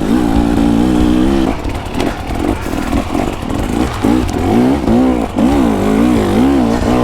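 KTM dirt bike engine running under riding load: its note holds steady for a second or so, then rises and falls again and again as the throttle is opened and closed.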